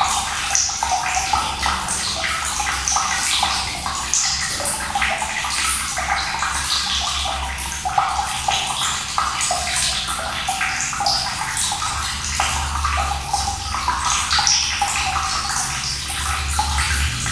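Running water splashing and pouring steadily, a dense bright spatter of many small splashes over a low rumble.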